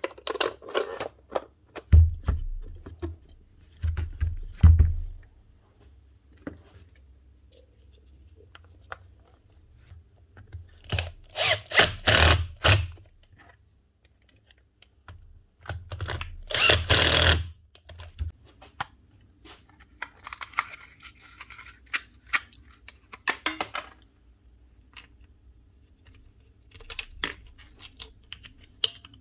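Workshop handling sounds: scattered clicks and knocks of tools and grinder parts, a few low thumps, and two longer bursts of scraping or whirring near the middle.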